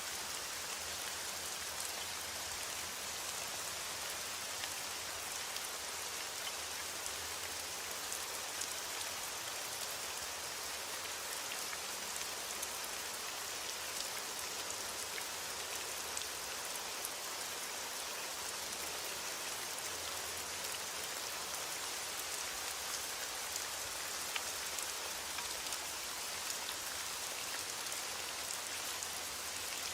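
Steady rain falling, an even hiss of drops with many small patters of individual drops landing on a surface.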